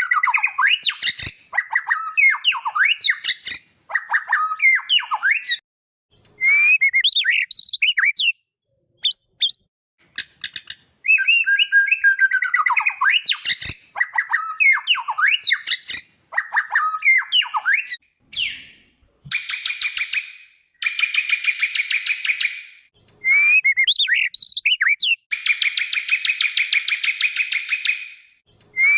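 White-rumped shama (murai batu) singing: phrases of rapid, sliding whistled notes a few seconds long with short gaps between them. From about two-thirds in, the song turns to harsh buzzing rattles, the longest lasting about three seconds near the end.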